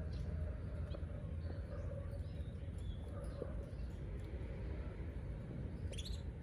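Canaries giving short, scattered chirps and calls, with a quick rising-and-falling call near the end, over a steady low rumble.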